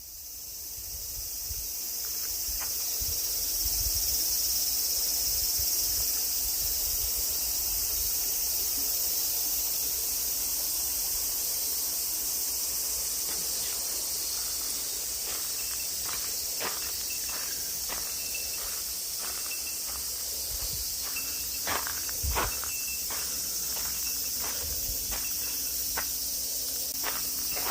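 A loud, steady, high-pitched chorus of summer insects droning. From about halfway through come scattered footsteps.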